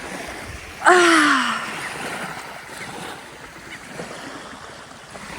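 A single drawn-out shouted call, falling in pitch, about a second in, over steady wind and lapping water.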